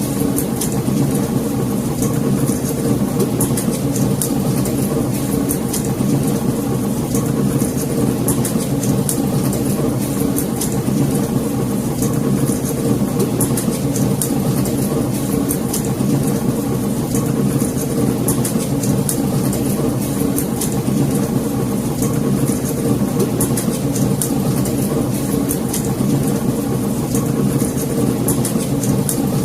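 Wood fire in a fireplace crackling, with many small irregular pops and snaps over a steady low rumble of the burning fire.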